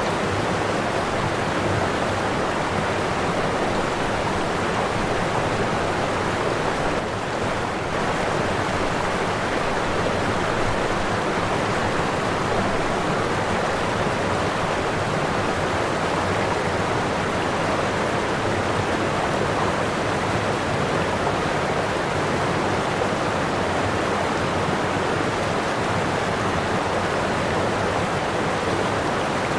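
Waterfall: falling water rushing in a steady, even roar, dipping slightly for a moment about seven seconds in.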